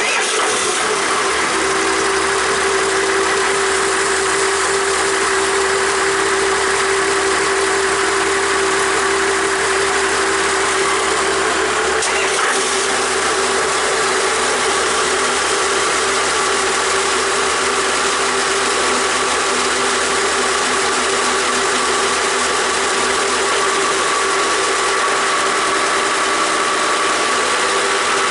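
The Princess 30DS's inboard engine starting from cold, cutting in suddenly at full level and then running at a steady idle with a busy mechanical clatter, heard close up in the engine bay.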